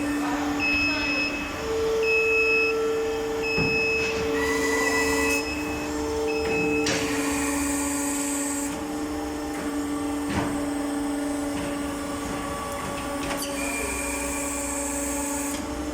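Polyurethane foaming machine running with a steady hum, an intermittent beeping buzzer over the first six seconds and again near the end, and two bursts of hiss, about halfway through and near the end.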